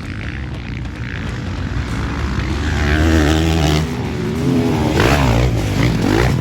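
Motocross bike engine running hard, its revs rising and falling in quick swings as it is ridden, loudest in the second half.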